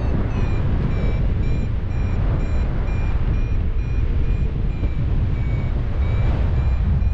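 Paragliding variometer beeping at a steady pitch, about two short beeps a second, its climb tone signalling that the glider is rising in lift. Heavy wind rush on the microphone runs underneath.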